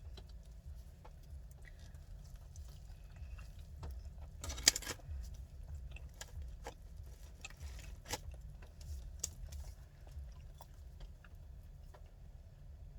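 Eating a toasted panini: scattered small crunches and mouth clicks of chewing, with one louder crackling crunch about four and a half seconds in, over a low steady hum.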